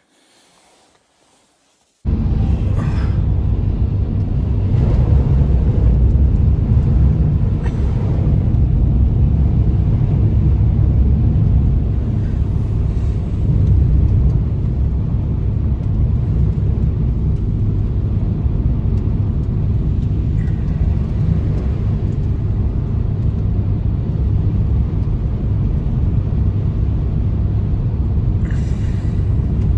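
Loud, steady low rumble that starts abruptly about two seconds in, after near silence.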